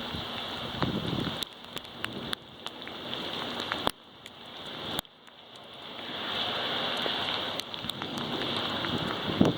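Rain falling hard in a severe thunderstorm, a steady hiss with scattered sharp ticks of drops striking close by. The sound drops away suddenly about four and five seconds in, then swells back.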